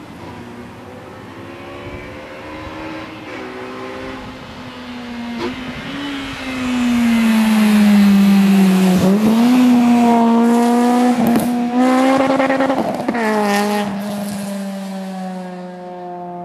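Honda K20 four-cylinder engine in a Civic EG running hard at high revs. It gets much louder about six seconds in, dips briefly in pitch and climbs again, then drops back and fades near the end.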